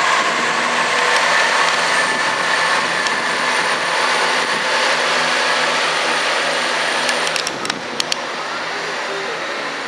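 Diesel passenger train running through the station, a steady engine and transmission noise with a thin high whine. A few sharp clicks come near the end as it eases off a little.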